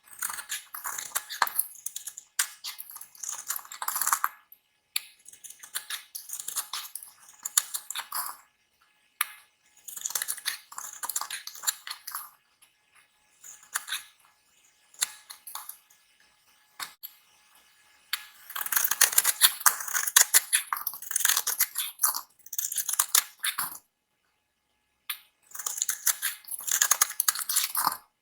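A knife cutting and carving dry bar soap, giving crisp, crackly scraping in runs of a few seconds with short silent gaps between them.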